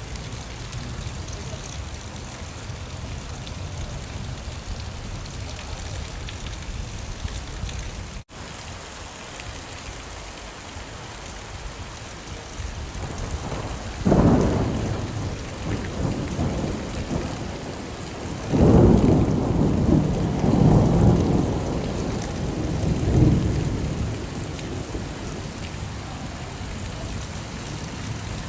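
Steady rain falling, with rumbles of thunder: one short peal about halfway through and a longer rolling one a few seconds later. The rain cuts out for an instant about a third of the way in.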